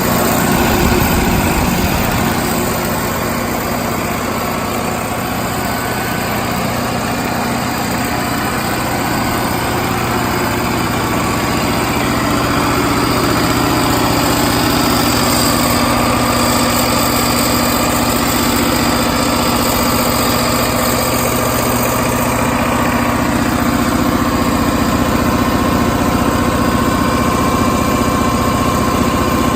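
Detroit Diesel 8.2L V8 diesel engine of a 75 kW generator set running steadily at constant speed.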